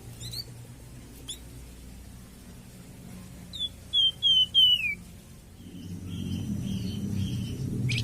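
Songbird calls, which the video names as a flamboyan bird: two short rising chirps, then a run of four loud down-slurred whistled notes about halfway through, followed by a few softer notes. A low steady hum lies underneath.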